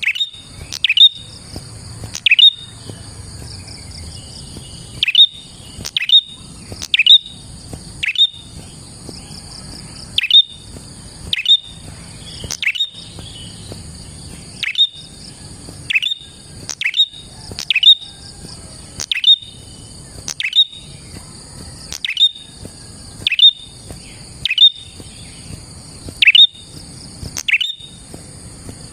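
Prenjak (prinia) calling: loud, sharp chirps about once a second, often in quick pairs, each a fast downward sweep. A steady, high buzzing trill runs behind them.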